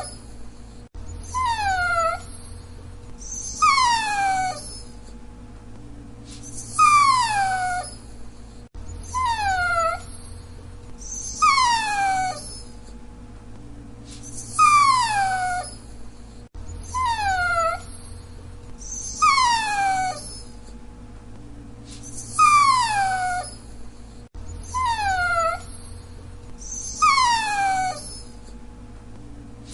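Dachshund whining: short whines, each falling in pitch, repeating about every two to three seconds over a faint steady hum.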